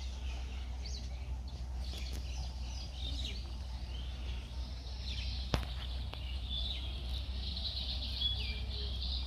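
Small birds chirping and calling over a steady low rumble, with a single sharp click about five and a half seconds in.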